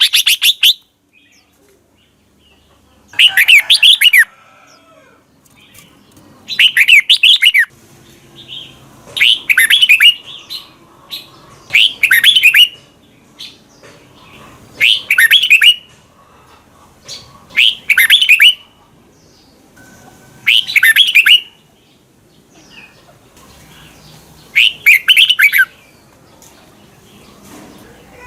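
Red-whiskered bulbul singing: short, loud, warbled phrases of quick gliding notes, each about a second long, repeated every two to three seconds with faint chips in between.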